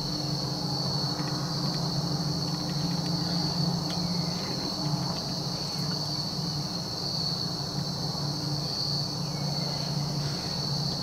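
Steady chorus of insects in the woods, an unbroken high-pitched trill that holds the same pitch throughout, over a low steady hum.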